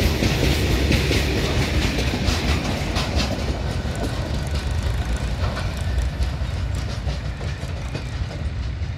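The tail of a freight train passing. The steel wheels of the last open wagons and the guard's brake van clatter over the rail joints, then the rumble fades steadily as the train draws away.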